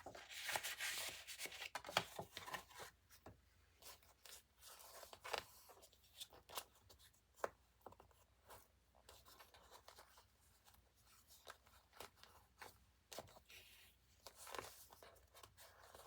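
Faint rustling of paper and card with scattered light clicks and taps, as the pages, pockets and a journaling card of a handmade journal are handled.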